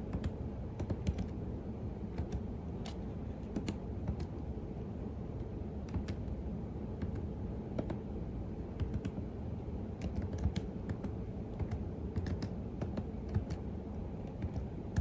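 Typing on a computer keyboard: irregular, unhurried key clicks, over a steady low rumble.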